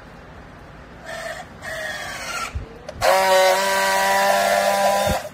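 A machine motor whines briefly twice. Then a louder, steady, high whine starts suddenly, runs for about two seconds and cuts off abruptly.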